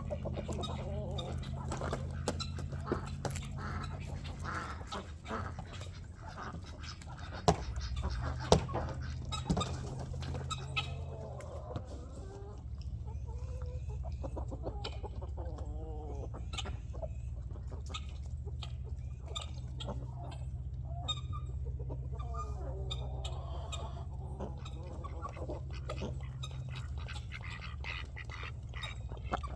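Chickens clucking close to the camera, with many small taps and clicks, two louder knocks about eight seconds in, and a steady low hum underneath.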